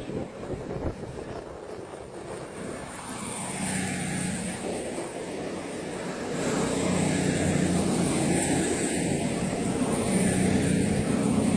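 A train approaching through the station: a steady rumble and hum with a high whine, growing louder and stepping up about halfway through.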